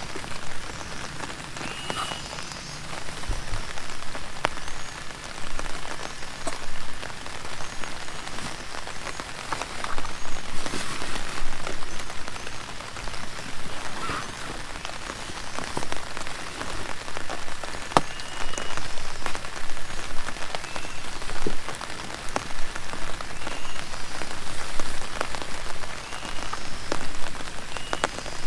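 Heavy rain falling steadily, with many individual drops striking sharply close by.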